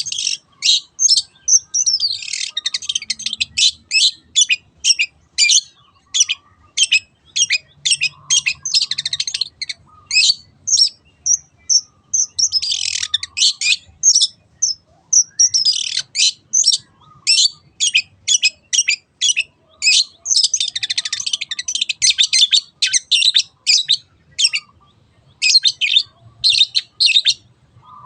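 Long-tailed shrike calling: runs of sharp, high, repeated notes, about two to three a second, broken several times by stretches of dense, scratchy chatter.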